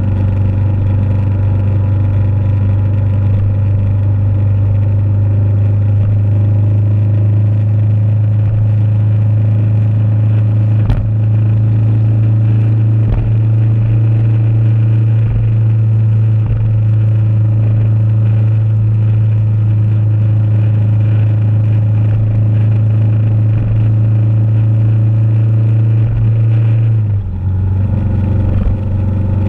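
Motorcycle engine running at a steady cruising speed, one constant low drone. About three seconds before the end the pitch drops suddenly, then holds steady at the lower note as the throttle eases or the gear changes.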